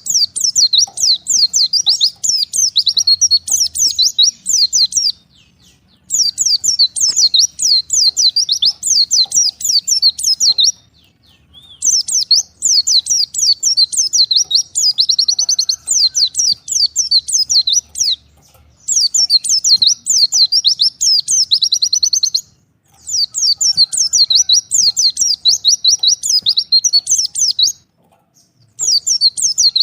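White-eye (pleci) singing a fast, high twittering song in long phrases of about four to six seconds, each broken off by a short pause.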